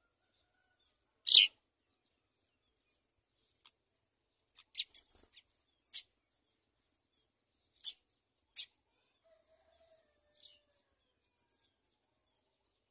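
House sparrows chirping: single short, high chirps with quiet gaps between them, the loudest about a second in, a quick cluster around five seconds, single chirps near six, eight and nine seconds, and faint ones near the end.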